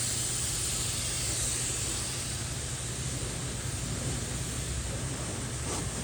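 Pressure washer spraying water on the car: a steady hiss over the low, even hum of the washer's pump.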